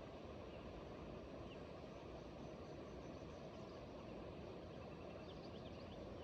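Faint, steady outdoor background noise with a few short, faint bird chirps, most of them in a cluster near the end.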